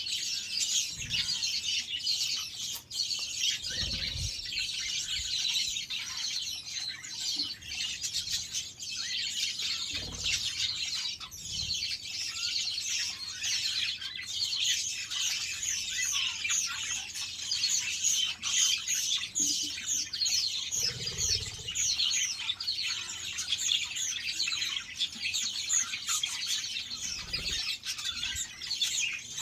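A flock of budgerigars chattering and chirping nonstop in a dense stream of rapid high chirps and warbles, with a few brief low thumps mixed in.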